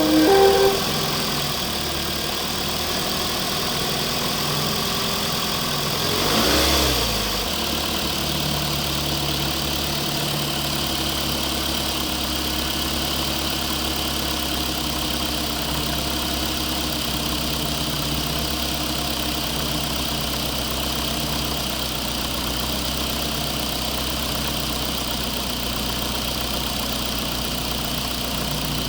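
Engine idling steadily, with a brief louder rise about six to seven seconds in.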